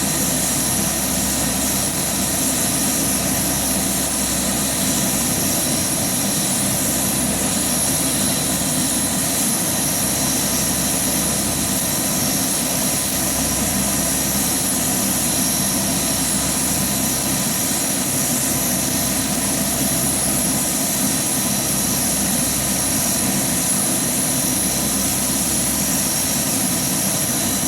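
Lockheed AP-3C Orion's Allison T56 turboprop engines running steadily on a ground run, a constant high turbine whine over an even propeller drone.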